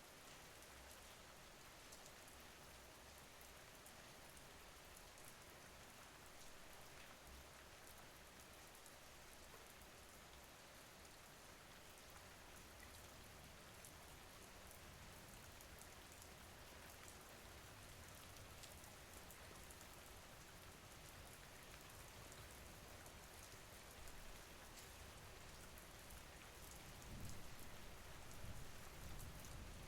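Faint, steady rain: an even hiss with light ticks of drops. A low rumble swells slightly near the end.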